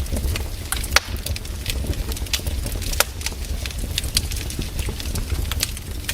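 Wood fire crackling, with irregular sharp pops over a low steady rumble; the loudest pops come about one and three seconds in.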